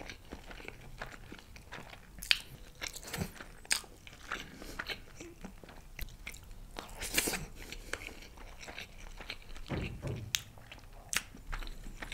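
Close-miked chewing and eating sounds of chicken biryani eaten by hand: a run of scattered wet smacks and short clicks from mouth and fingers.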